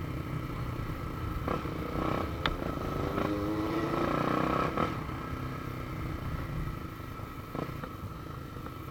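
Motorcycle engine running while riding; its pitch climbs for a couple of seconds as it accelerates, then eases off about halfway through. A single sharp click sounds a couple of seconds in.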